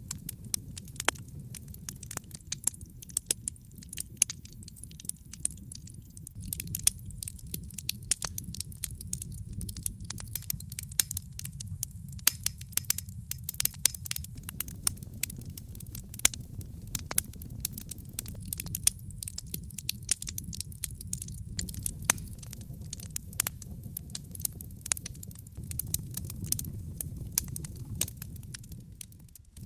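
Wood fire burning in a fireplace: a steady low rumble of flames under constant crackling and sharp pops of varying loudness, dipping out briefly just before the end.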